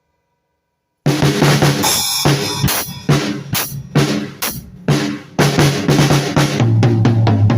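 Silence, then about a second in a drum kit comes in abruptly and is played loudly and busily, with many hits in close succession.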